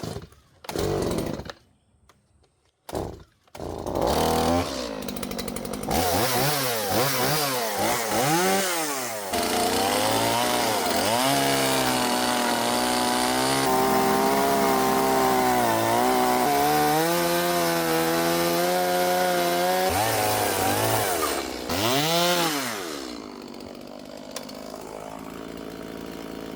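Two-stroke chainsaw starting up about three seconds in, then cutting into kiln-dried wood at full throttle, its pitch dipping and rising as it loads up in the cut. Near the end it drops back to idle.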